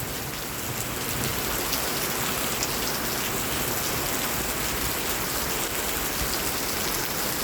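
Heavy rain falling steadily and hard on surfaces, a dense even hiss of a storm downpour.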